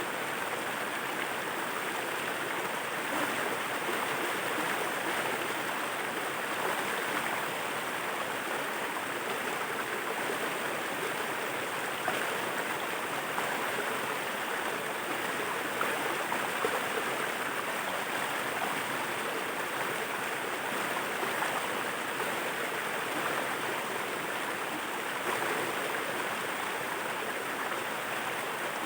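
Steady rushing and splashing of water falling over a small waterfall, an even wash of noise.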